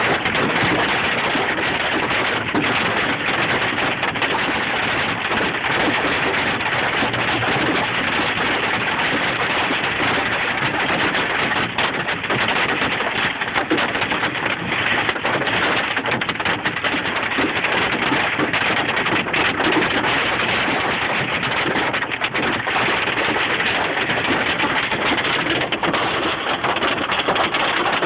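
Hail and rain pelting down in a dense, steady clatter of countless small hits.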